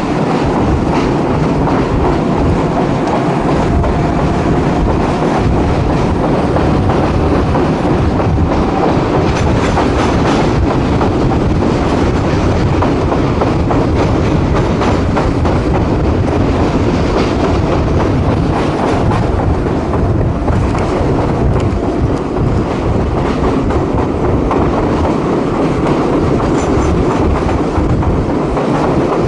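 AES-11 railcar running, heard from on board: a steady rumble of wheels on the track with clickety-clack over the rail joints.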